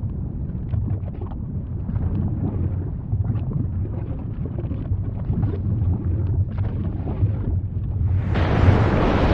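Volcano rumbling deeply with scattered crackles and pops, with wind on the microphone. Near the end a much louder, brighter rushing blast comes in suddenly.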